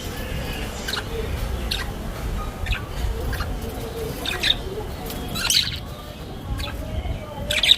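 Budgerigars chirping and squawking in short, irregular calls over a steady low rumble.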